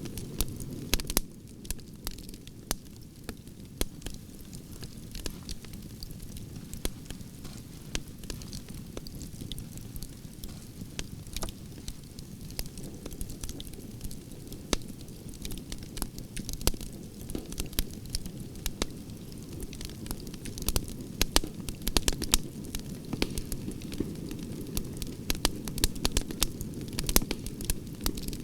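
Wood campfire of burning branches crackling: a steady low rush of flame with many sharp pops and snaps, coming thicker in the last third.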